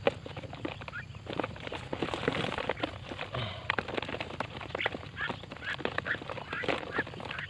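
Birds giving short, harsh squawking calls over and over, mixed with many small clicks and knocks of handling or rustling.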